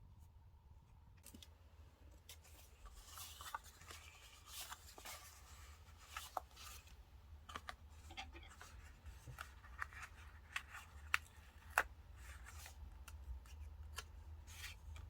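Paper and stickers being handled and cut at a desk: a run of small snips and clicks with soft paper rustling, starting about a second in, with two sharper clicks a little past the middle.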